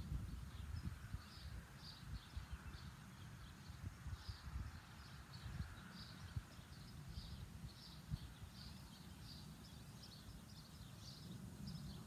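A small bird chirping over and over, short high calls about twice a second, over a low, uneven rumble.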